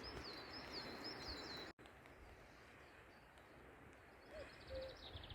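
Faint outdoor ambience with a small songbird singing a run of quick repeated chirps. The background drops quieter after a sudden cut, and a rapid, falling trill of short notes comes in near the end.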